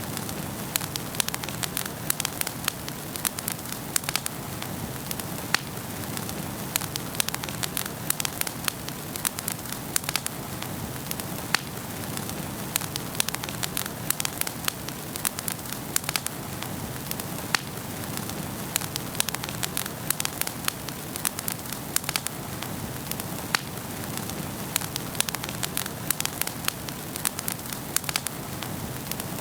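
Wood fire burning in a fireplace, crackling and popping with many sharp irregular snaps over a steady soft rush of flame.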